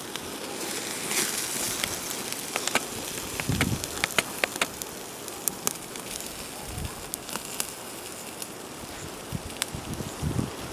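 Wood campfire crackling: a steady hiss dotted with sharp pops and snaps, thickest about four to five seconds in, with a few soft low thuds.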